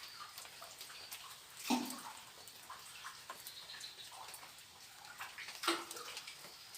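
Footsteps splashing and squelching through wet ground on a forest trail, with small knocks and rustles and two louder splashes about four seconds apart. A faint, steady, high insect whine sits underneath.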